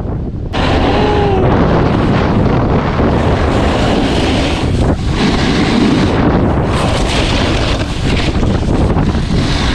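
Strong wind buffeting the microphone: a loud, steady, rushing roar that jumps up half a second in and holds. A brief squeak rises and falls about a second in.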